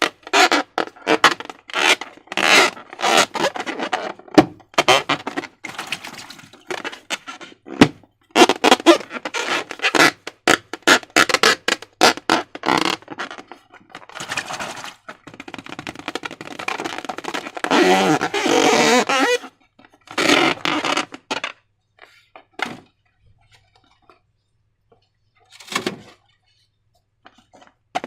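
Slime being squished and worked by hand: a dense run of wet squelches, sticky pops and scrapes. It thins out to a couple of isolated squishes over the last several seconds.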